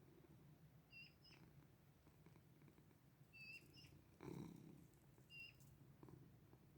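Very faint, short high chirps, about five of them in pairs, over a low steady rumble that swells briefly near the middle.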